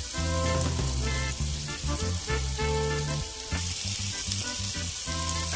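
Chilies, tomato and small dried anchovies sizzling in hot oil in a pan while being stirred with a spatula, with background music playing over it.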